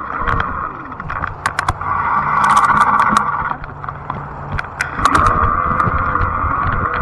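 Fat-tire e-bike on the move: a steady hum from the drivetrain and tyres that eases off twice and comes back. Over it are many sharp clicks and rattles from the bike.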